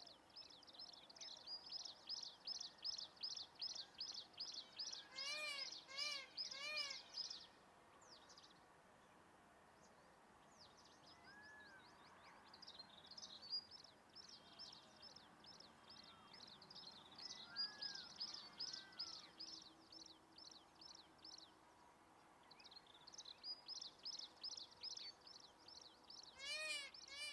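Faint wild birdsong: a long run of short, high chirps repeating about three times a second, broken by a few short arched calls given in threes, about five seconds in and again near the end.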